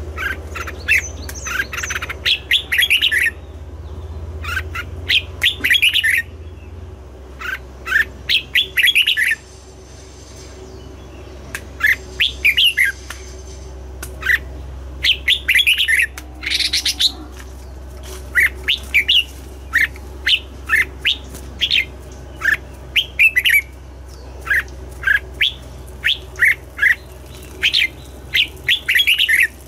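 Red-whiskered bulbul singing: phrases of short, sweeping whistled notes in quick runs, with brief pauses between phrases. A steady low hum runs underneath.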